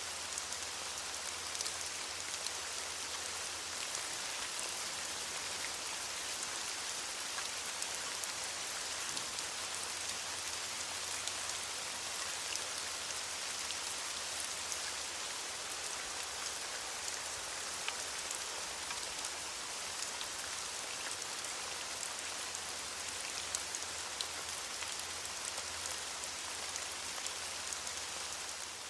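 Steady rain falling on leaves, an even hiss with many small drop ticks.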